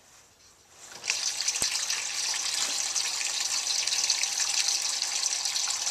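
Water gushing through the weight-operated valve of a Nelson automatic horse waterer into its bowl as a steady hiss, starting about a second in, once the locking lever is released and the bowl refills.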